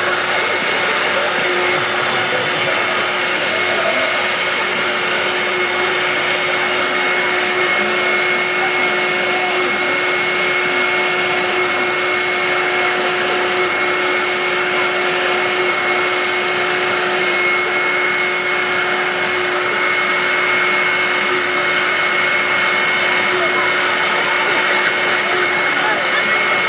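Vacuum cleaner running continuously with a steady whine that does not change in pitch or level.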